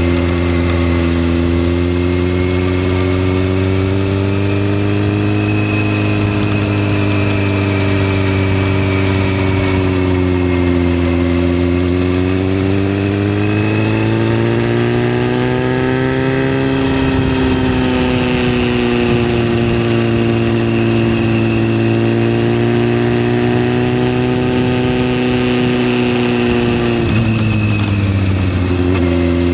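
Yamaha FZS600 Fazer's 600 cc inline-four engine running under way, its pitch rising and falling slowly with the throttle. Near the end there is a quick drop and pick-up in revs.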